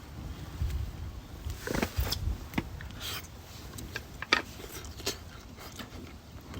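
Irregular clicks and knocks with low thumps, the sharpest knock about four seconds in.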